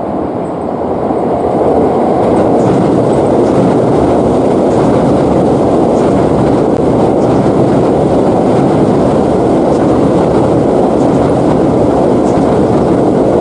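Train running along the track with a steady rolling rumble. It grows louder over the first two seconds, then holds level with faint clicks, and cuts off abruptly at the end.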